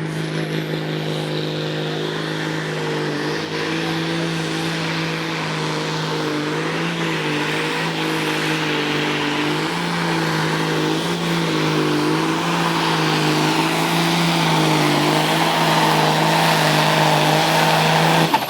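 Naturally aspirated pulling tractor engine running at high, steady revs under full load during a pull, its pitch wavering slightly. It grows louder through the pass and cuts off suddenly near the end.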